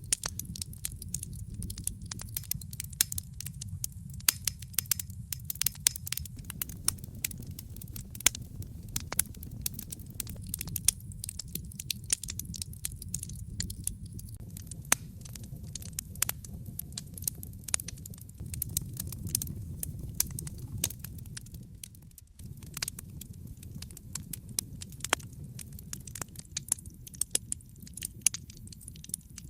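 Wood fire crackling in a fireplace: a steady low rumble of flames under frequent irregular sharp pops and snaps.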